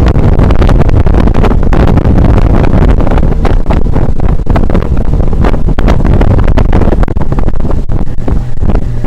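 Heavy wind buffeting the microphone over the running Tohatsu 9.8 outboard of an inflatable motorboat under way at speed.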